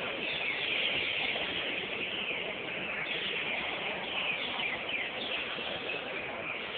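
Green-winged saltators (trinca-ferro) singing over one another, a dense chorus of loud whistled phrases made of many short falling notes with no break.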